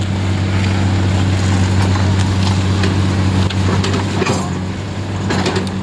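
Vehicle engine running with a steady low hum, amid the noise of slow, heavy road traffic.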